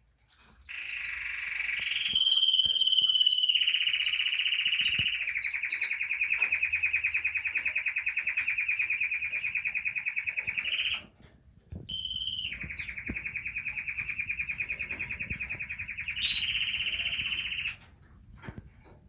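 Canary singing two long trills of rapidly repeated notes, the first about ten seconds long and the second about six, with a brief pause between them.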